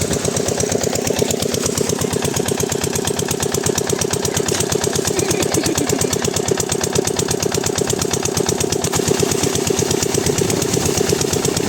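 Single-cylinder Lister-type diesel engine of an irrigation water pumpset running steadily, with an even, rapid beat of firing strokes.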